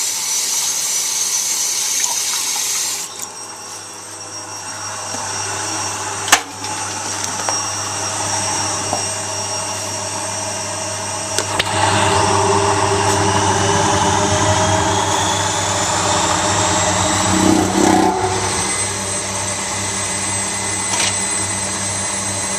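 Zanussi washing machine running with its door open: water rushes into the drum for the first three seconds, then the motor and drum hum steadily. A sharp click comes about six seconds in, and from about twelve seconds on a whine rises in pitch as the drum speeds up.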